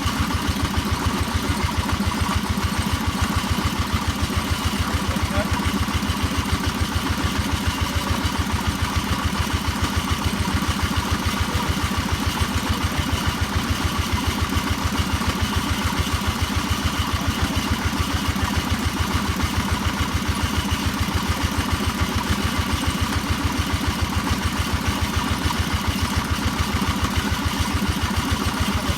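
Percussion hammer-drilling machine running steadily, its strokes coming in a rapid, even pulsing rhythm that does not change.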